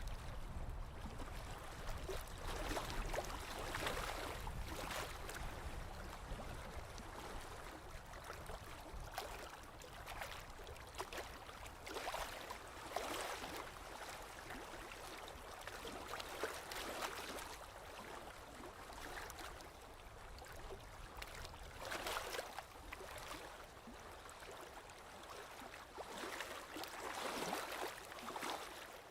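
Small lake waves lapping and splashing against the shore in an irregular rhythm, a soft wash every second or two.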